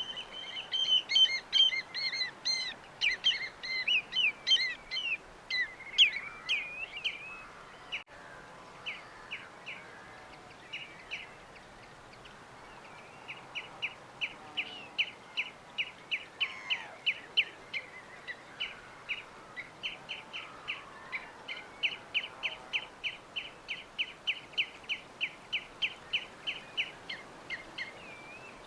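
Songbirds singing: a rapid, varied burst of high chirping and trills, then after a short lull a long run of evenly repeated short chirps, about three a second.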